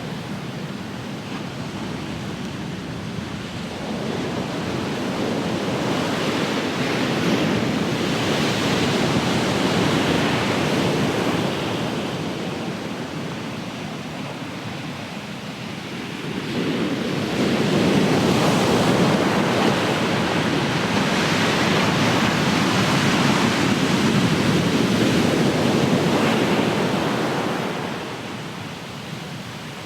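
Ocean surf: waves breaking and washing up the shore as a steady rushing hiss. It swells twice, once from a few seconds in to about halfway, and again more loudly from just past halfway until near the end.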